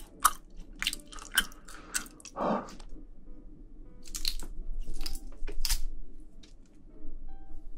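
Close-miked chewing of spicy braised seafood with bean sprouts: wet smacks and crisp crunches. About four to six seconds in, a cluster of sharp clicks and rustles as metal tongs pick through the saucy seafood.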